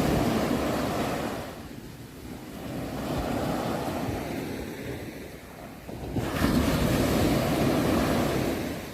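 Sea waves surging and washing back in a rhythm of swells. A wave is washing in at the start, a softer one follows around the middle, and a louder one arrives suddenly about six seconds in.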